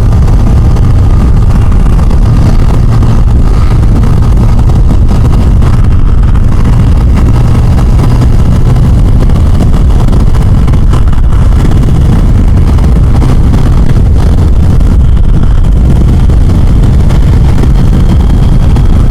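Loud, steady wind buffeting on the microphone while riding a Yamaha FJR1300 at speed, with the inline-four engine running underneath. The wind noise is heavy because the motorcycle's windshield has been cut short.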